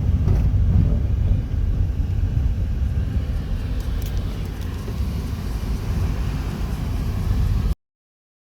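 Moving vehicle's engine and road noise, a steady low rumble; the sound cuts out completely near the end.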